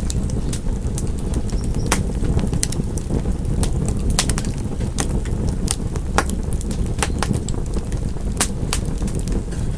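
Wood fire crackling and popping, with sharp irregular snaps over a steady low rumble of flame.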